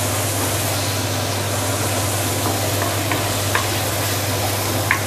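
Sambal chili paste sizzling steadily as it fries in plenty of oil over medium heat in a stainless steel wok, stirred with a wooden spatula that scrapes the bottom with a few light knocks. A steady low hum runs underneath.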